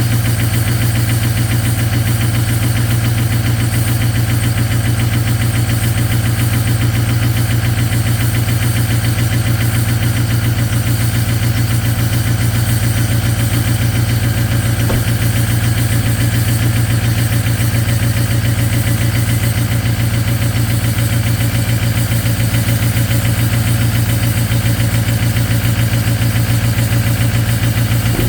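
Ford 6.0 Powerstroke turbo-diesel V8 running steadily at cold high idle, on fuel partially gelled by the cold.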